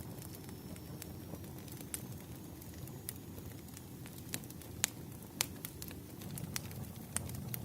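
Burning firewood crackling: irregular sharp pops and snaps over a low, steady rumble of the flames.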